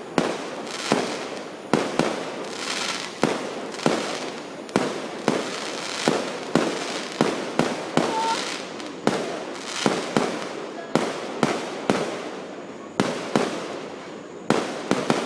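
Fireworks going off in a rapid string of sharp bangs, about one to two a second, each followed by a short hissing trail.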